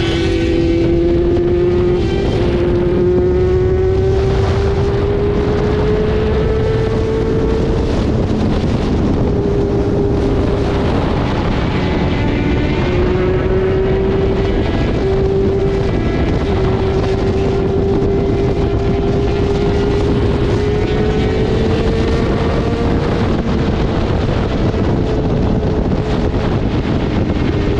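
Motorcycle engine running steadily at cruising speed, its pitch drifting slowly up and down, with wind rushing over the microphone.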